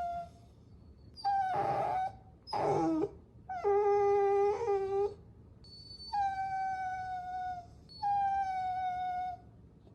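Puppy whining: five high, drawn-out whines one after another. The last two are long and steady, sliding slightly down in pitch.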